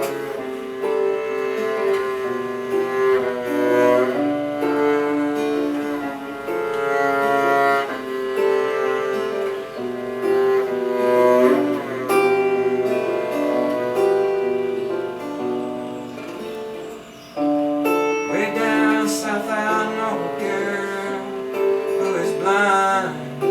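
Acoustic guitar and double bass playing the instrumental introduction to a song, with long held notes over picked guitar.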